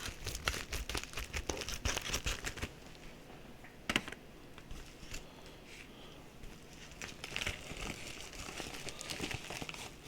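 Mail packaging crinkling and tearing as it is opened by hand, in two spells, with one sharp click about four seconds in.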